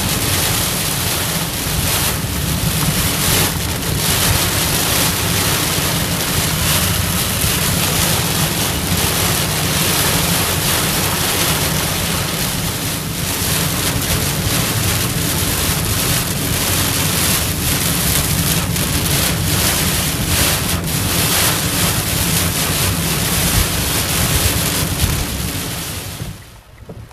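Heavy rain and wind beating on a moving car during a thunderstorm, heard from inside the cabin as a loud steady rush of noise. It cuts off suddenly near the end.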